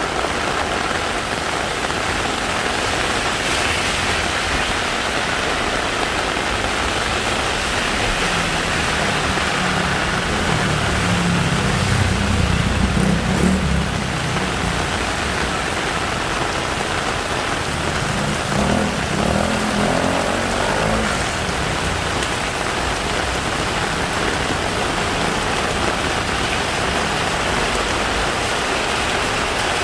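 Heavy rain falling steadily, a dense hiss. A low rumble swells and fades in the middle and again briefly later on.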